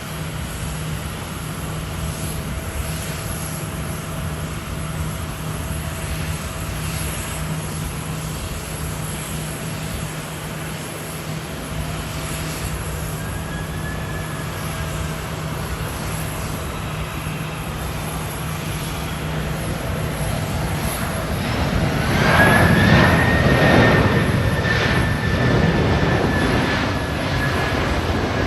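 Airbus A330-300 airliner with General Electric CF6 jet engines on landing approach, its engine noise steady at first, then growing much louder about 22 seconds in with a high engine whine as it passes closest.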